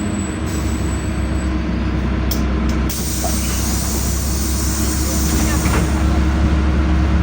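LiAZ-5292.65 city bus heard from inside while under way: a steady low engine drone with road noise. Two short clicks come about two and a half seconds in, followed by a few seconds of high hissing.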